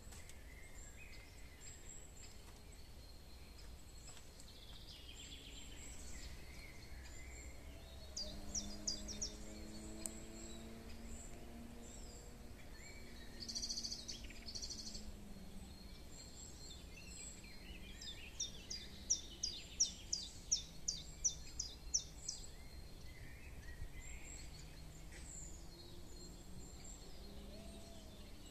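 Songbirds singing and calling among trees, high chirps and trills, with a run of about ten loud, sharp repeated notes just past the middle. A faint low drone runs underneath.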